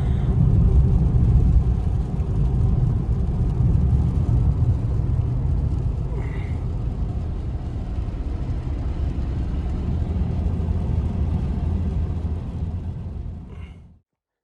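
Loud, steady low rumbling noise that fades out near the end.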